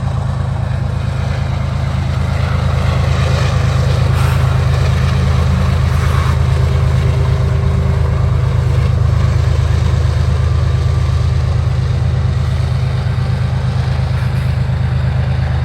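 Slow CSX freight train passing close by, with the steady low drone of a diesel locomotive engine.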